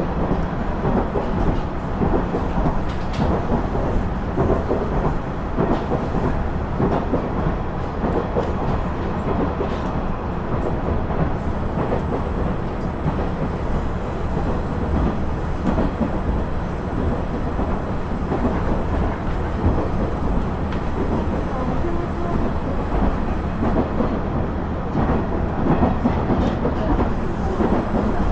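Running noise inside a KiHa 110 series diesel railcar (KiHa 112 car) under way: a steady rumble of the diesel engine and the wheels on the rails, with a few faint clicks.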